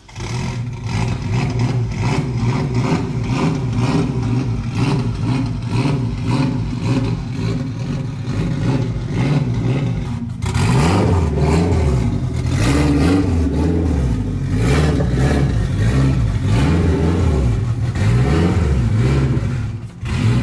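Car engine running loudly, then revving and accelerating, with its pitch rising again and again in the second half.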